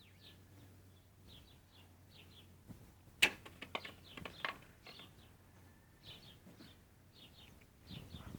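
Small birds chirping repeatedly in short, high calls. About three seconds in comes a quick run of sharp clicks, the loudest sound here.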